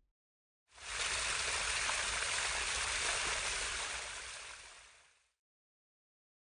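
A steady rushing noise like running water comes in about a second in, holds, and fades out over its last second or so.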